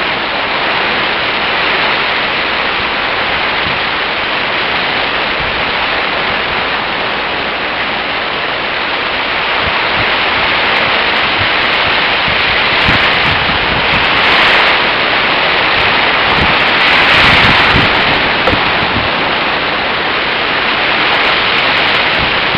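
Typhoon wind and rain: a loud, steady rushing noise that swells in gusts, loudest a little past the middle. Low thumps of wind buffeting the microphone come during the strongest gusts.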